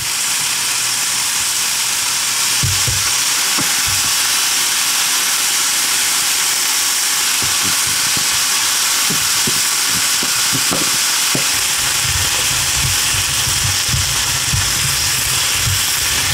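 Sliced mushrooms and bell peppers sizzling steadily as they fry in a pan, with soft knocks and scrapes from a silicone spatula stirring them.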